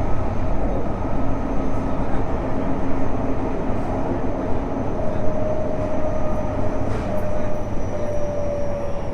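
Tokyo Metro 05 series subway car running, heard from inside the car: a steady rumble of wheels on rail under the thin whine of its Mitsubishi IGBT inverter and traction motors, the whine drifting slightly lower in pitch.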